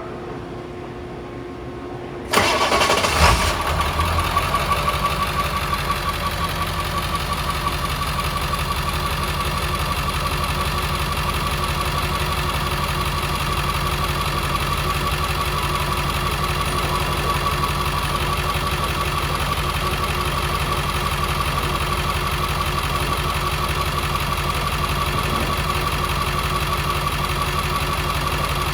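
International T444E V8 turbodiesel engine cranked over by its starter about two seconds in. It catches within about a second and settles into a steady idle.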